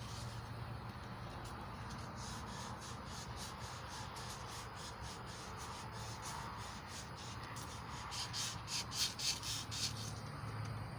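Medium-grit emery cloth rubbed back and forth on a small-block Chevy 350 crankshaft journal, polishing it: a rhythmic scraping of about two to three strokes a second that grows louder a few seconds before the end.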